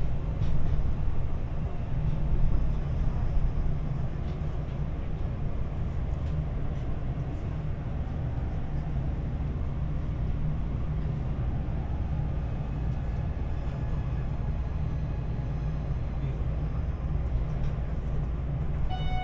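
Hanshin 8000 series electric train running, heard from inside the car: a steady low rumble of wheels on rail, with a few short clicks in the first several seconds.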